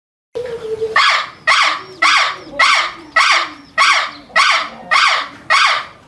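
An animal calling loudly and repeatedly, about two calls a second, starting after a moment of silence.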